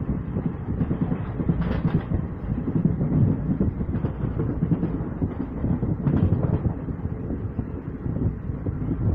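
Running noise of a train heard from a carriage window: a steady low rumble and rattle, with a couple of sharp clacks of the wheels over the track, about two seconds in and again about six seconds in.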